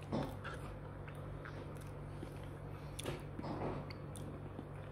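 A person chewing soft durian flesh, with a few faint wet mouth sounds over a steady low hum.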